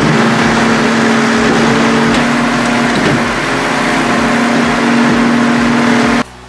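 Firewood processor with a circular saw running at full power, a steady engine hum under loud, harsh saw noise as it works through logs. It cuts off abruptly near the end.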